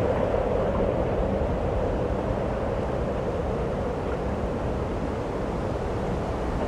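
Steady rushing wind, easing slightly as it goes.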